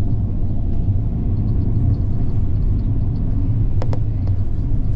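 Steady low road and engine rumble inside a moving tour bus, with two brief clicks just before the end.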